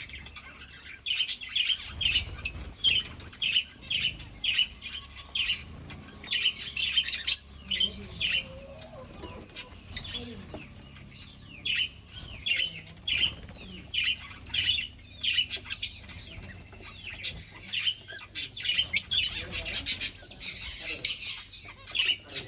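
Aviary finches calling: a run of short, high chirps about twice a second from several birds overlapping.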